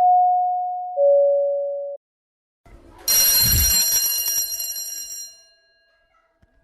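Two-note "ding-dong" chime sound effect, a higher note then a lower one, each fading out over about a second. A moment later a metallic clatter and a bright bell ring that fades away over about two seconds.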